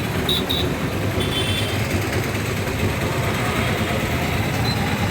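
Steady town traffic noise, a dense mix of vehicle engines, with a few brief high-pitched tones in the first two seconds.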